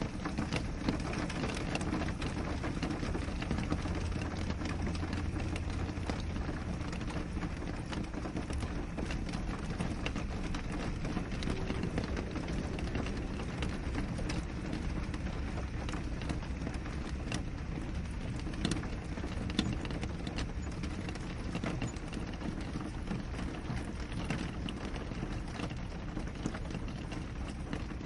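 Steady rain falling, with a dense patter of sharp drop ticks striking a window.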